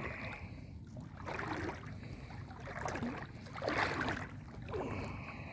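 Legs wading through knee-deep floodwater: a swishing splash with each stride, roughly one a second.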